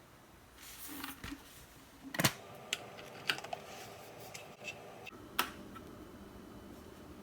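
A string of plastic clicks and knocks from a Breville glass electric kettle being handled and switched on, the loudest about two seconds in. A faint steady hiss follows as the kettle starts heating the water.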